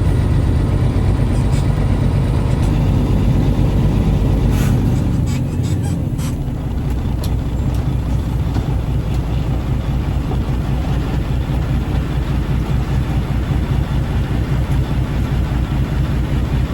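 Loaded triaxle dump truck's diesel engine running with a steady low rumble; about five seconds in it drops in level and settles into an even, pulsing idle, with a few clicks just before.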